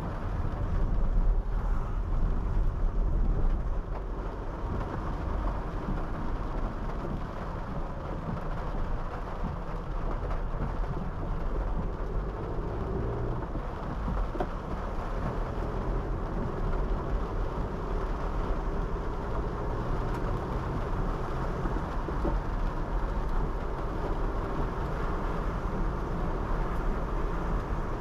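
Honda City 5th-gen sedan driving on a wet road in the rain: a steady rush of tyre and road noise over the engine, a little louder for the first few seconds.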